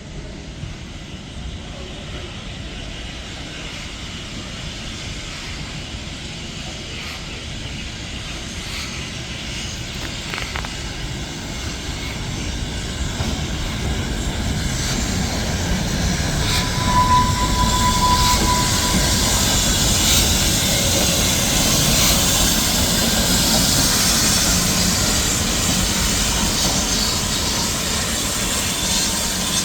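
Steam-hauled train approaching and going by, its rumbling noise building steadily for about fifteen seconds and then staying loud, with a brief steady tone about halfway through.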